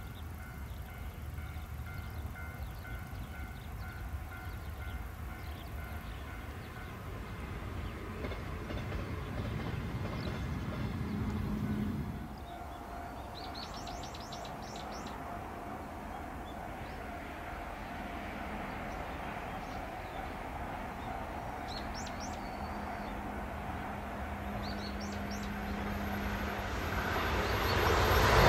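Series 381 electric express train approaching on the rails, its running noise growing much louder over the last two seconds as it draws close. A few short bird chirps sound over the low rumble.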